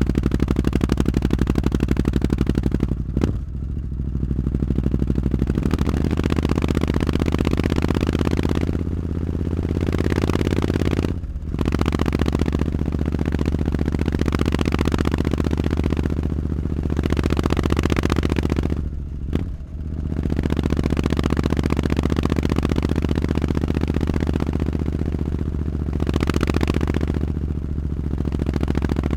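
Triumph Street Scrambler's parallel-twin engine running through a Zard exhaust, a steady, loud engine note that breaks off briefly three times, about three, eleven and nineteen seconds in, before picking up again.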